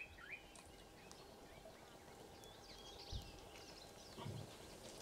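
Near silence outdoors, with faint, scattered bird chirps.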